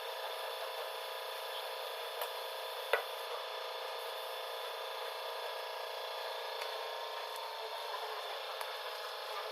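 Hand tools handled during engine work: two sharp clicks, the louder about three seconds in, over a steady hum.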